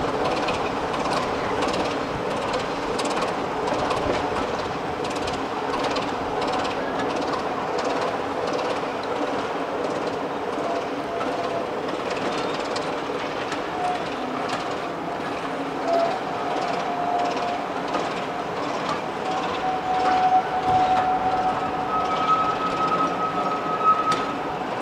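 Maroon passenger coaches behind a diesel locomotive rolling slowly over curved track and pointwork, wheels clicking over the rail joints as a steady stream of clicks over a low rumble. In the second half thin, steady squeals from the wheels on the curve come and go.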